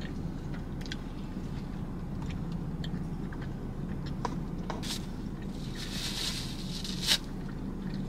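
Quiet chewing and mouth sounds of someone eating boneless chicken wings, with a few small clicks and a brief paper-napkin rustle about six to seven seconds in, over a steady low hum in a car cabin.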